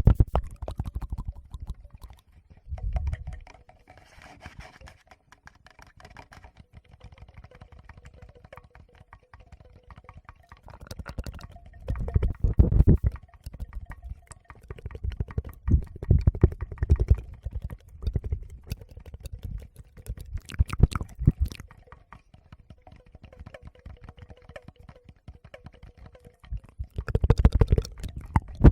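Fingers touching and rubbing a Tascam recorder's microphones close up. Deep handling rumbles and crackling clicks come in bursts, with quieter stretches of light clicking between them.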